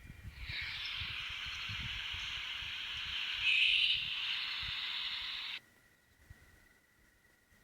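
One long, harsh, hissing screech, loudest just past the middle, that cuts off suddenly near the end. The recordist takes it for a western barn owl's screech.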